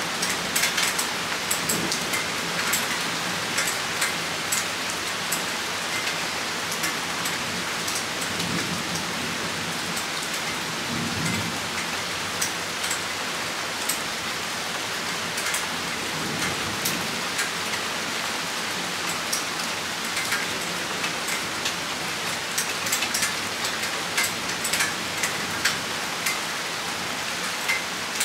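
Rain shower: a steady hiss of rain with many drops tapping close by, and a few low rumbles of thunder near the middle.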